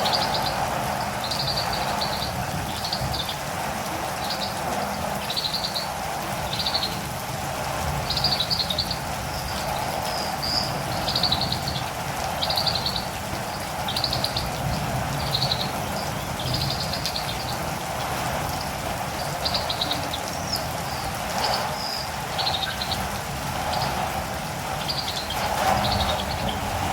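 Catirumbava birds giving short, high chirps in quick clusters, about one cluster a second, over a steady hiss of rain.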